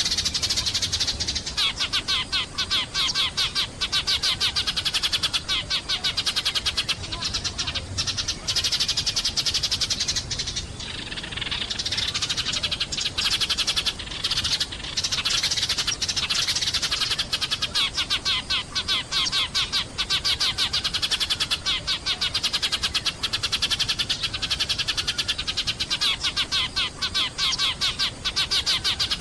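A flock of sparrows chirping and chattering nonstop, many short overlapping chirps a second, thinning briefly about a third of the way through.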